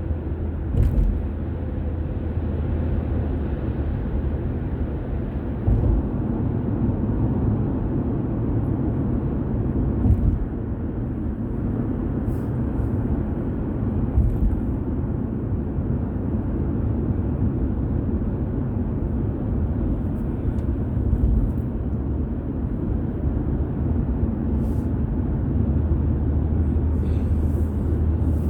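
Car driving along: steady low road and engine rumble, with a few short knocks or bumps scattered through it.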